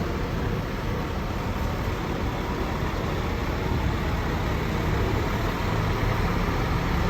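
Scania K410 bus diesel engine running, mixed with road and traffic noise; the engine note grows a little louder and rises slightly near the end.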